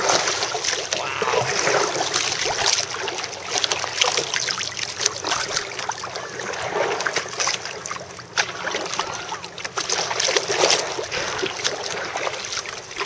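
Water lapping and splashing against a kayak hull: a steady wash of small splashes and trickles.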